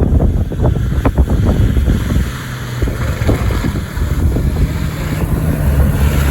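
Wind buffeting the microphone over the low running of an off-road 4x4's engine. About two seconds in, a steadier engine hum comes through under the gusts.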